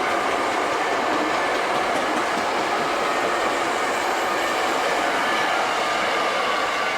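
A Hankyu electric train passing close by without stopping: a steady, loud run of wheels and motors. The level-crossing warning bell rings over it.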